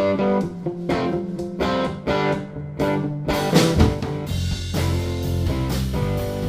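Live rock band playing a song intro: a guitar repeats a plucked, strummed figure, and about three seconds in the drums and bass guitar come in and the band plays on together.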